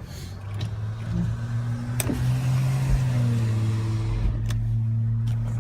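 A vehicle engine running at low revs, getting louder and stepping up slightly in pitch about two seconds in as it pulls. A sharp click sounds at about the same moment.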